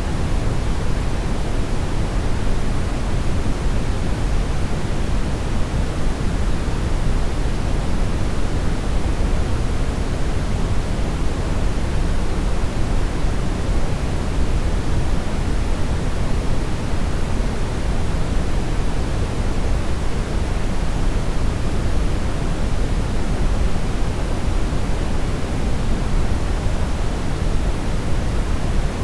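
Synthetic brown noise: a steady, unchanging hiss, heaviest in the deep low end and falling away toward the highs.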